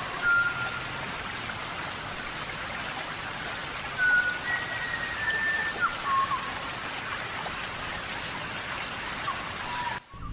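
Steady rain, with a few short, faint high notes held over it now and then.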